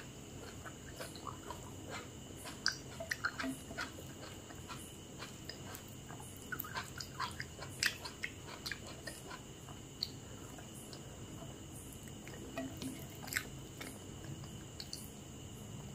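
A person chewing food close to the microphone, with irregular clusters of wet mouth clicks and occasional crunches.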